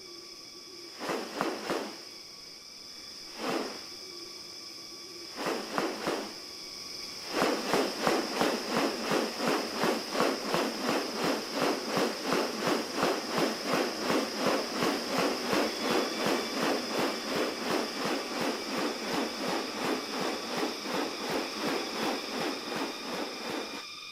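Rainforest ambience with insects buzzing steadily at a high pitch. A few scattered rustles come first; then, about seven seconds in, a rhythmic swishing starts and repeats about three times a second.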